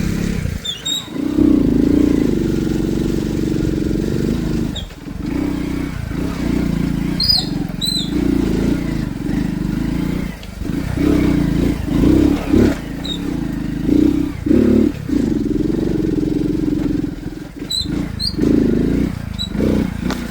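An engine running with its pitch wavering up and down, with several brief drops in level.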